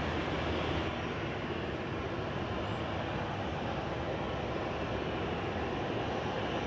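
Airliner engines running, a steady rush of jet noise with no change in level.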